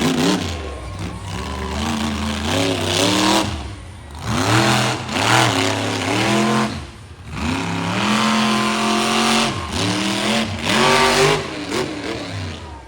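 Monster truck's supercharged V8 revving hard, the throttle opened and closed again and again so the pitch keeps climbing and falling. It dips sharply about four and seven seconds in.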